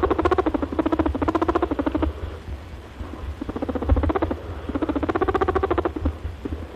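Rabbit vocalising in trains of rapid pulsed calls, in two main bouts of about two seconds each, with fainter calls between them.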